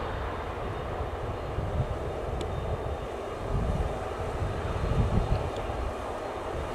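An aircraft engine running steadily, with an irregular low rumble underneath.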